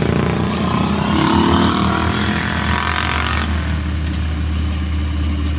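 Diesel engine of road construction equipment running steadily, with a louder rough, noisy stretch over the first three seconds or so that stops about three and a half seconds in.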